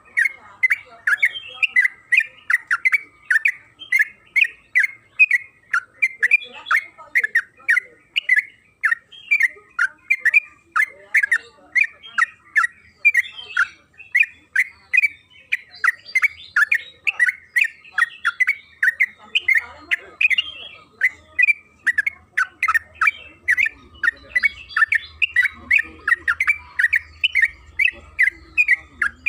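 Trucukan (yellow-vented bulbul) singing a long, unbroken chattering song of short sharp notes, about two to three a second, over a faint steady tone.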